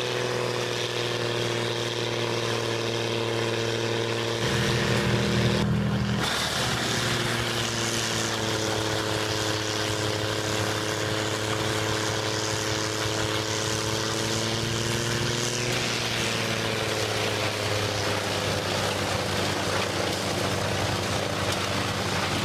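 Heavy machinery engine, a tractor-driven wood chipper, running steadily with a constant pitched drone. The sound briefly grows louder and deeper about four seconds in, and the pitch shifts slightly near the end.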